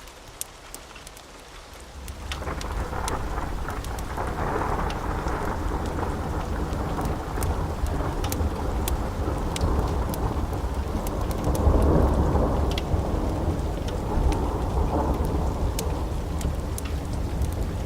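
Steady rain with a long, rolling rumble of thunder that swells in about two seconds in and is loudest near the middle. Sharp little ticks of drops sound throughout.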